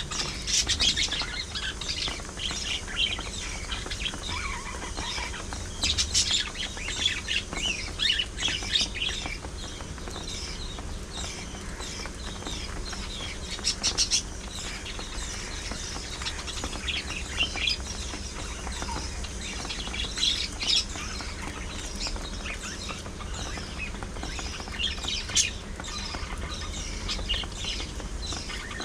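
A group of budgerigars chattering and warbling: many quick overlapping chirps and chatter, with louder bursts now and then, over a steady low hum.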